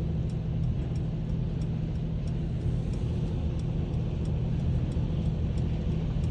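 Steady low rumble of a car, with faint, irregular high ticks several times a second, hailstones striking the car.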